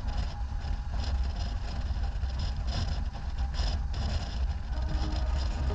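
Steady wind and engine rumble from a motorcycle on the move, heard as a constant low buffeting on the microphone.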